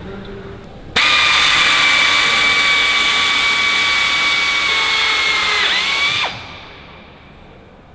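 Power drill running at a steady high whine for about five seconds, its pitch dipping just before it stops.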